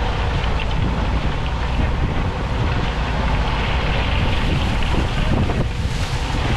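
Strong wind buffeting the microphone: a loud, steady rumbling roar with no breaks.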